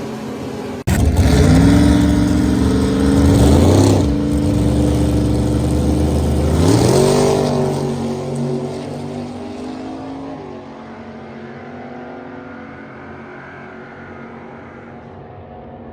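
A straight-axle gasser hot rod's engine, starting abruptly about a second in and revving hard, with two sharp blips of the throttle, then the sound fades as the car pulls away.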